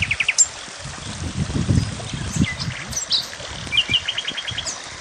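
Small songbirds chirping, with a quick run of repeated trill notes at the start and again about four seconds in, over an uneven low rumbling noise.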